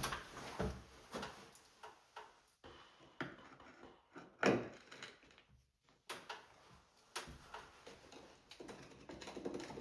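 Scattered light taps, clicks and scrapes of hand work on small shower-wall tiles, with one louder knock about four and a half seconds in.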